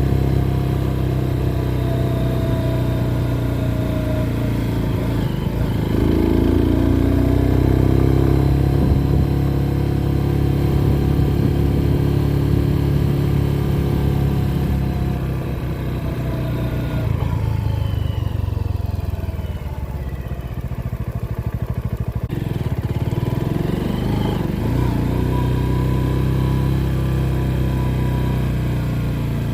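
Motorcycle engine running under way, its pitch rising and falling with the throttle. About two-thirds of the way through, the revs and loudness drop, then pick up again.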